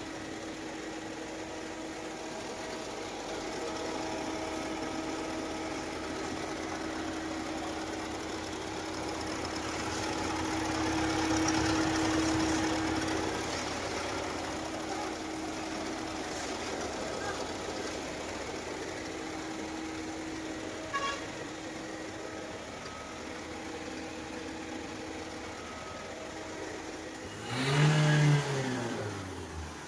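Ford car engine idling steadily during a decarbonising treatment, swelling a little about a third of the way in, then revved once briefly near the end, its pitch rising and falling back.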